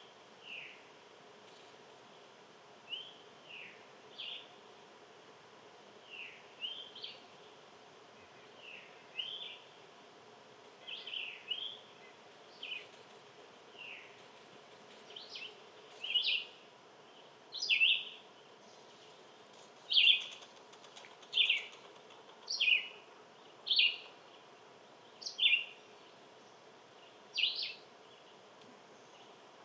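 A small bird giving short chirps over and over, about one every second or two, louder in the second half.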